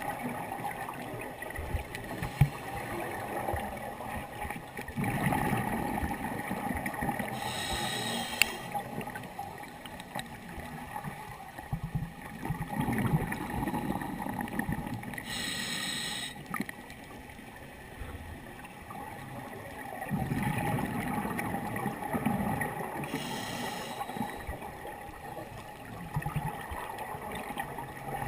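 Scuba diver breathing through a regulator underwater: three slow breath cycles, each a gurgling rush of exhaled bubbles followed by a short hiss of inhalation, about every seven to eight seconds.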